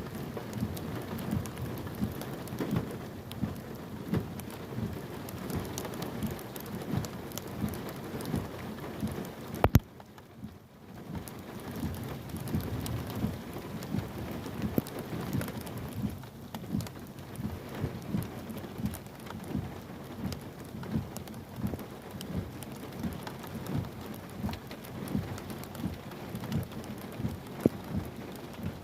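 Heavy rain falling, a dense, irregular spatter of close drops. Nearly ten seconds in there is a sharp click, and the rain sound drops away for about a second before returning.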